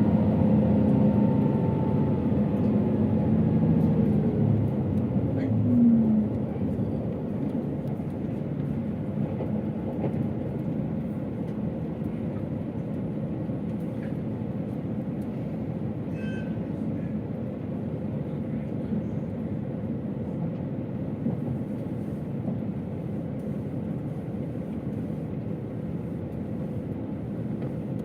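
KiHa 281 series diesel railcar under way: the diesel engine note falls in pitch and drops away about six seconds in, leaving the steady rumble of the train rolling on the rails.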